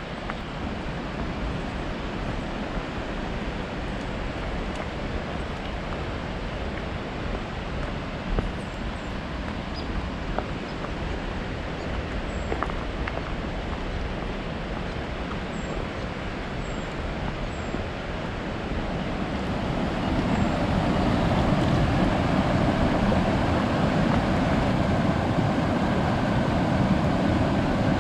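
Steady rush of a fast mountain creek, growing louder about two-thirds of the way through as the creek comes closer. A few faint high chirps sound over it.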